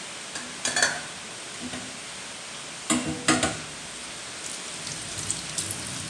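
Corn cobs and a cooking pot being handled: two bursts of clunks and rattles, about a second in and again about three seconds in, then a few light ticks. Under them runs a steady hiss of heavy rain.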